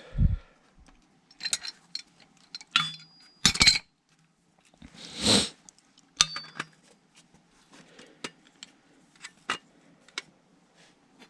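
Metal tools and fittings clinking, tapping and knocking in irregular handling, some strikes ringing briefly, during hand work on a furnace gas valve and its gas line connection. There is a dull thump right at the start and a short rushing noise about five seconds in.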